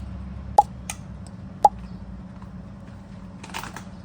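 Two sharp knocks about a second apart over a steady low hum, with a brief rustle near the end.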